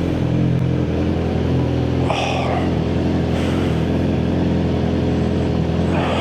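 Yamaha R6's inline-four engine idling steadily, with a brief hiss about two seconds in.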